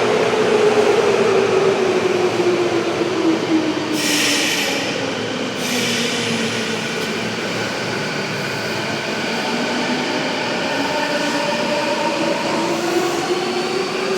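Electric subway train running. Its motor whine falls steadily in pitch, then rises again in the last few seconds, with a brief high squeal about four seconds in.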